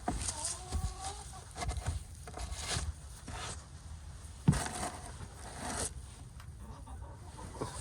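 Domestic hens clucking softly, with wavering calls near the start, among scattered clicks and rustles. A single sharp knock comes a little past halfway.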